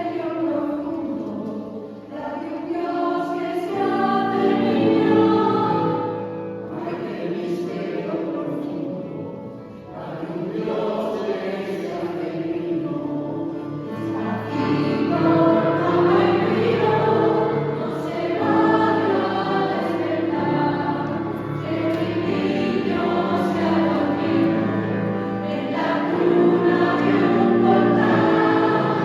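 Mixed choir singing a Christmas song in Spanish, several voice parts in harmony, in phrases that swell and ease off, with a brief dip about 2 s in and again near 10 s.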